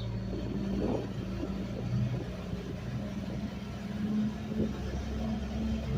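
Garbage truck engine running with a steady low hum, with a few faint knocks over it.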